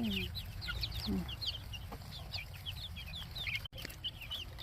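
A brood of chicks peeping continuously: many short, high, downward-sliding chirps overlapping one another.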